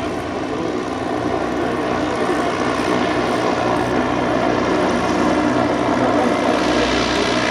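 Engines and propellers of the Zeppelin NT airship Eureka droning steadily on its landing approach, slowly growing louder as it comes in.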